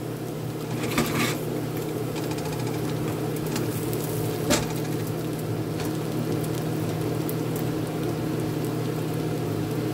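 Raw shrimp sizzling steadily in a nonstick frying pan over high heat as they release their water, with a few sharp knocks, a pair about a second in and one about four and a half seconds in.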